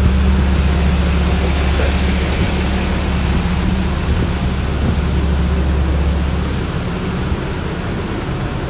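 Steady rain hiss with a deep wind rumble on the microphone, the rumble easing a little about seven seconds in.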